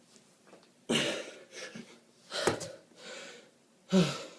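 A man breathing hard from exertion during a kettlebell set: a forceful exhalation about every second and a half, with smaller breaths in between, the last one voiced like a short grunt.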